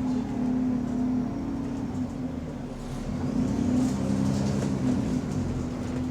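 A bus engine running while the bus is under way, heard from on board, its note shifting as the bus pulls along, with a faint rising whine a few seconds in. This bus has an exhaust leak, which is heard more from outside.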